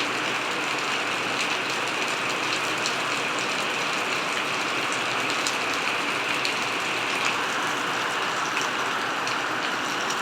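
Steady rain falling, an even hiss with scattered sharp ticks of drops striking close by.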